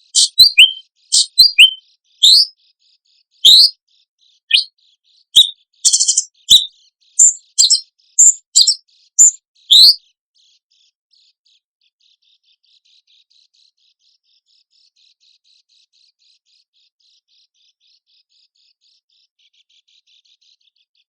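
Songbird calls from a training recording of the harsh kind called besetan: loud, sharp, high chirps and short whistles in quick uneven runs for about ten seconds. After that they stop, leaving only a faint high twittering.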